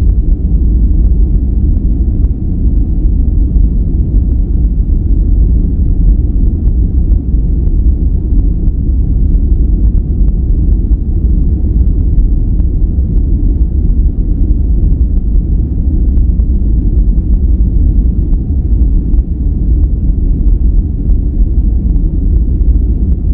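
Steady, unbroken sleep-aid noise with its weight in the deep lows and nothing hissy on top: a dark rumbling noise, brown noise rather than true white noise.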